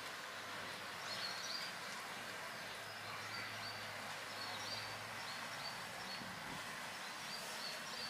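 Outdoor ambience: small birds chirping in short repeated calls over a steady background hiss, with a faint low hum that fades about five seconds in.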